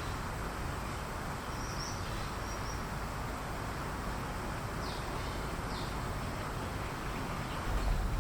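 Steady outdoor background noise with a few faint, short, high bird chirps, then a low rumble, like a passing vehicle, building near the end.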